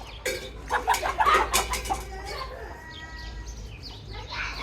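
Chickens and chicks calling, with clucks and peeps; the calls are busiest and loudest from about half a second to two seconds in, then softer, with more calls near the end.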